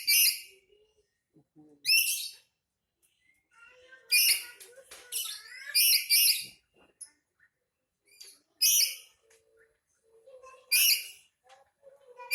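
Black-capped lory calling loudly in short bursts, around eight calls with quiet gaps between them, some coming in quick clusters: the agitated calling of an angry parrot.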